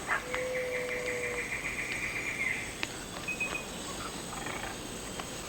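Tropical forest ambience of animal calls: a steady whistle and a fast pulsed trill together over the first couple of seconds, then a short high chirp and scattered clicks.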